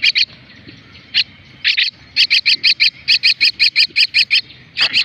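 Common myna chick giving short, sharp, shrill calls: a few at first, then a fast even run of about five calls a second for about two seconds, and two more near the end.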